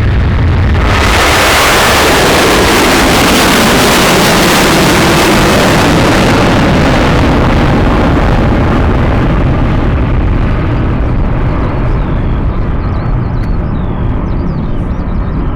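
Jet airliner taking off at full thrust: a loud roar of engine noise that swells sharply about a second in, stays at its loudest for several seconds, then slowly fades as the aircraft climbs away. Birds chirp faintly near the end.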